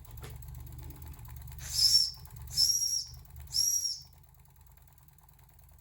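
Three short, shrill steam-whistle toots with a hiss of steam, about a second apart, over the steady running of a small Jensen live steam engine. The engine's running sound fades after about four seconds.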